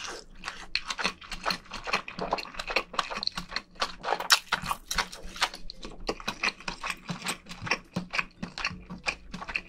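Close-miked chewing of cooked fish roe from a seafood stew: a rapid run of wet mouth clicks, several a second.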